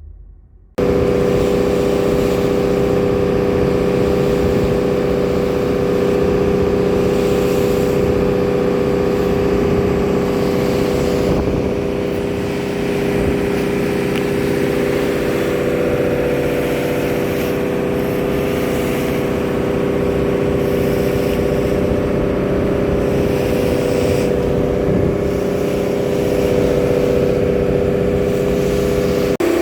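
Fishing boat's engine running at a steady speed, loud and unchanging, starting suddenly about a second in.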